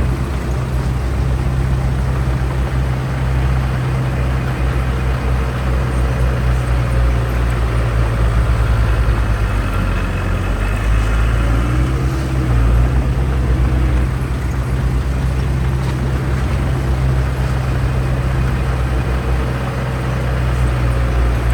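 Heavy diesel construction machinery running steadily: a deep engine drone with no breaks.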